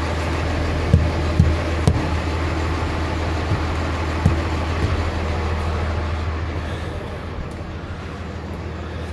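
Kenworth T880 truck's diesel engine idling steadily while a hammer strikes its tires a handful of times in the first five seconds: sharp knocks of a tire thump check for inflation.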